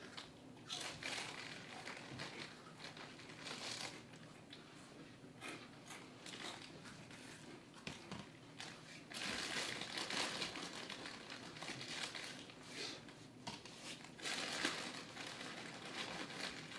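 Food packaging being handled, crinkling and rustling on and off.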